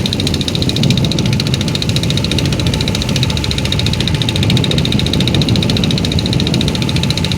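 Boat engine running steadily at a loud, even level, with a rapid regular beat.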